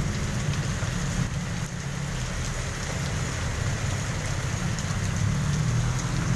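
Heavy rain pouring down steadily on a wet street and on a plastic awning overhead, with cars driving slowly through the water and a low engine rumble underneath.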